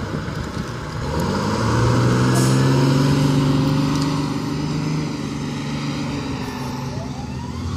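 Fire engine's diesel engine running loud as it pulls in close, its pitch rising about a second in and holding before easing off; near the end a siren begins to wind up.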